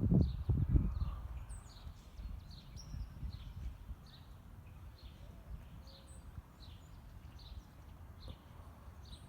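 Outdoor ambience: a small bird chirping over and over, a short high chirp about every half second, over a low rumble that is strongest in the first second.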